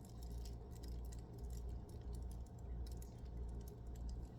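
Light, irregular clicks and taps from a phone and headset being handled and switched on, over a low steady hum.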